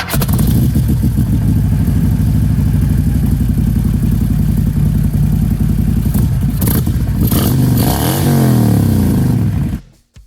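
Motorcycle engine running loud and close, with a rev that rises and falls near the end, then cutting off suddenly.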